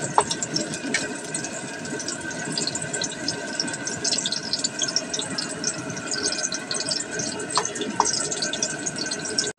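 Sliced garlic and red onion sizzling and crackling in hot oil in a metal wok, with a wooden spatula knocking against the pan a few times as it stirs.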